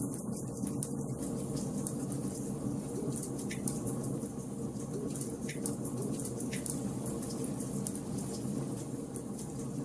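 Wood fire burning in a fireplace: a steady low rush of burning logs with scattered small crackles and pops.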